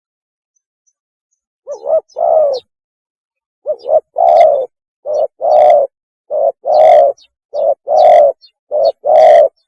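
Spotted dove cooing: a mating call of paired coos, each a short note followed by a longer one. The pairs start after a pause of almost two seconds and repeat six times at an even pace.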